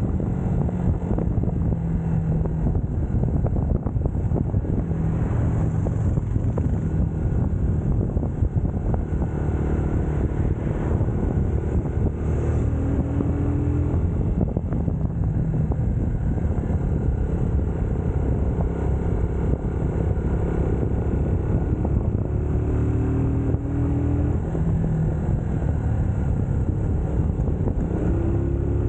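UM Scrambler X motorcycle engine running under way, its pitch stepping up and down as the revs change, with road and wind noise.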